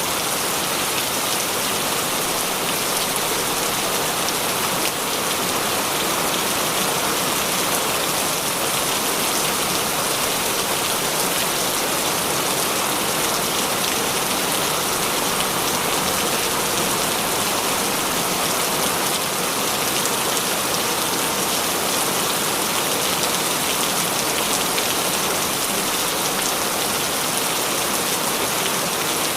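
Heavy rain falling steadily, a dense even hiss of raindrops with no let-up.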